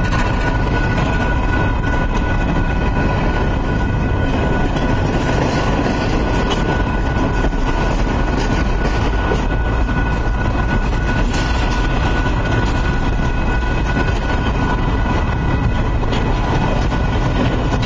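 A double-stack intermodal freight train's well cars rolling past: a loud, steady rumble of steel wheels on rail, with a steady high tone over it.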